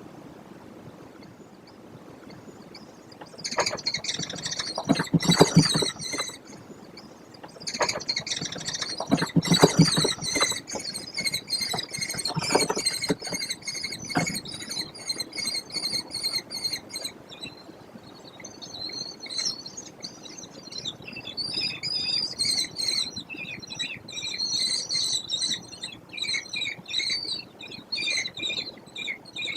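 American kestrels in a nest box calling in rapid series of shrill repeated notes, with several loud thumps and scuffles in the box during the first half.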